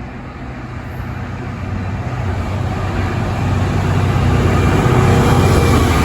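A train coming in close, with a steady low hum under a rumble that grows steadily louder and peaks near the end.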